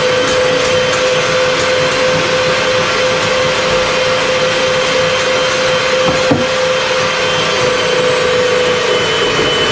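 Electric motor of a power tool running steadily, with a constant hum over a broad whooshing noise and a single knock about six seconds in.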